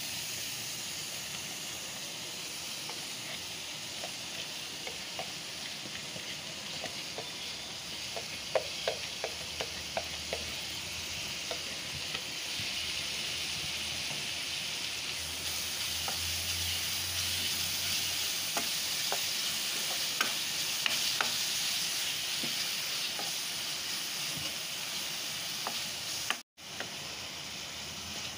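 Chopped onions frying in butter and chilli powder in a nonstick pan: a steady sizzle, with a spatula scraping and clicking against the pan at times as they are stirred in. The sound drops out for an instant near the end.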